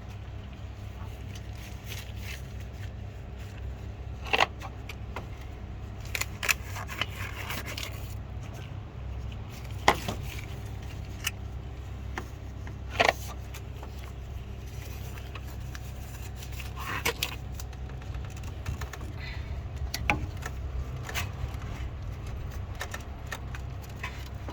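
Metal tools clinking and scraping against car parts in scattered sharp knocks, over a steady low hum.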